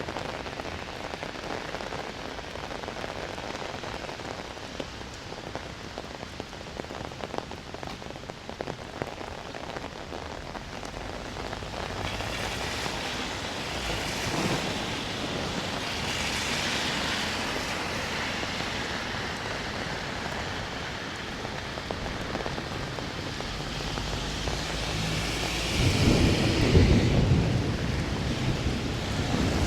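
Steady rain falling with a patter of individual drops. A low roll of thunder builds in the last few seconds and is loudest about 26 to 27 seconds in.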